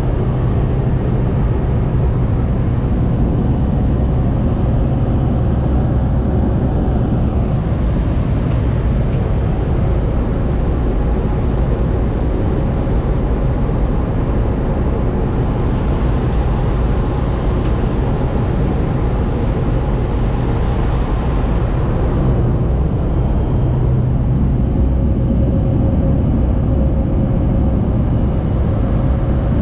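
Steady engine and air noise heard inside an airliner cabin, with a strong low hum. The higher hiss drops away about three-quarters of the way through.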